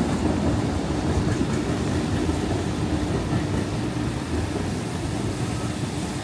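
Steady rumble of a passing train, easing off slightly toward the end.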